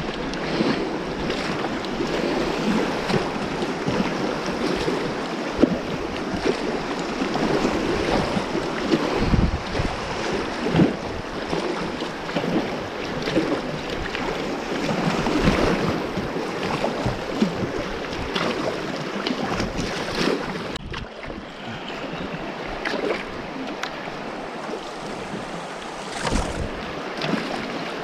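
Whitewater rapids rushing around a kayak, with scattered splashes and a few low bumps of wind on the microphone.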